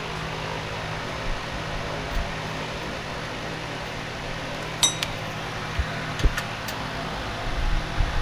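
A few light metallic clinks of small hand tools or hardware being handled, in the second half, followed by some dull knocks near the end, over a steady background hum.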